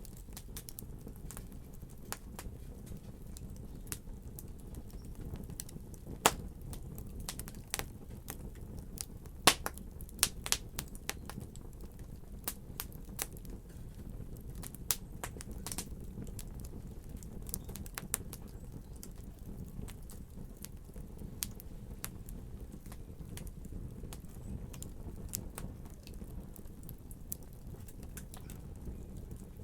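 Wood fire burning in a fireplace: a steady low rumble of flames with irregular crackles and pops, a few sharp louder pops about six seconds in and around the tenth second.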